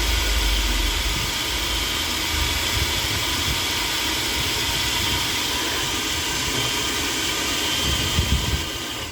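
Philips Walita food processor motor running steadily at speed, its drive gears freshly greased and no longer screeching. A few knocks just before it is switched off at the end.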